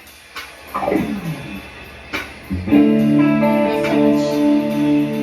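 Band instruments between songs: a few taps and a short falling slide note, then, about two and a half seconds in, a chord starts and is held, ringing steadily on guitar and keyboard.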